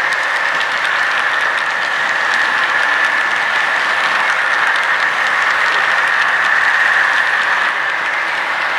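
Model train running on its track: a steady whirring whine with fine, fast clicking of the wheels over the rails.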